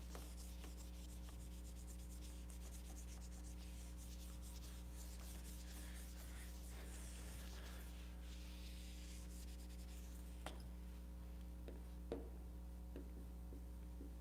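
Faint rustling of paper pages being turned, over a steady low electrical hum, with a few soft clicks near the end.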